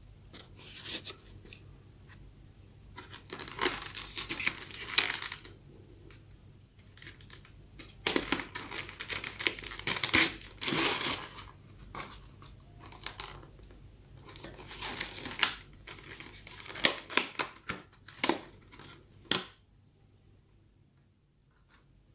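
Soft bread being torn apart by hand in several bursts of tearing and crinkling, with small sharp ticks in between.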